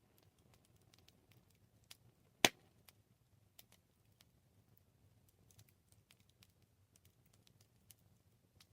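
Wood fire crackling: scattered small snaps and ticks over a faint low rumble of the flames, with one sharp, much louder pop about two and a half seconds in.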